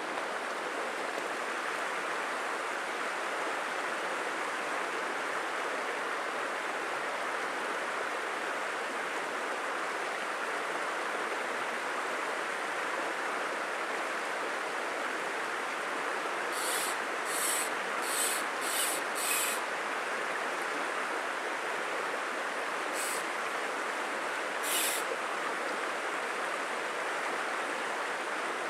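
Steady rush of flowing stream water. Beginning a little past halfway, five short hissing swishes come about two-thirds of a second apart, then two more a few seconds later.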